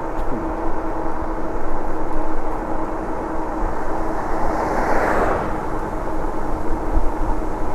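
Wind buffeting the microphone and road noise while riding an e-bike, with a steady hum underneath. A motor vehicle passes about five seconds in, swelling and then fading.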